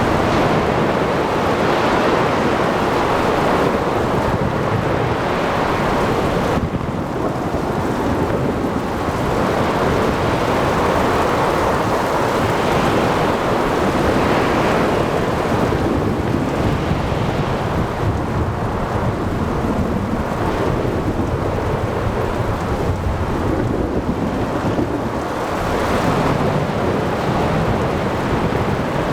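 Thunderstorm at sea: continuous rumbling thunder over steady rain, breaking waves and wind, one unbroken wash of noise. The high hiss thins for a while about seven seconds in.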